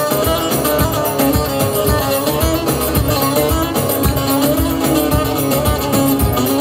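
Live Turkish folk music instrumental break between sung verses: plucked string instruments playing a lively melody over a steady, regular beat.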